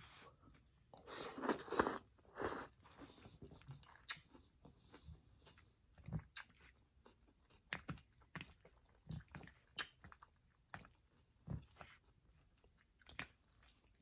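A person eating chicken lo mein: a louder noisy stretch as a mouthful of noodles goes in about a second in, then chewing with scattered short wet clicks and smacks.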